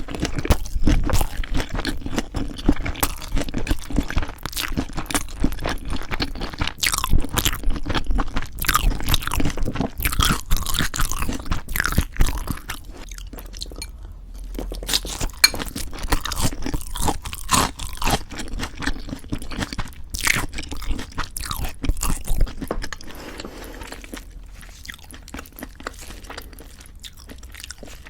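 Close-miked chewing of leaf-wrapped ssam bites of raw fish bibimbap and boneless chicken feet, with dense crisp crunching and wet mouth sounds. It turns quieter for the last few seconds.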